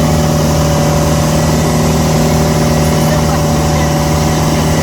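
Motorboat engine running loudly at a steady speed, its note holding constant without revving up or down.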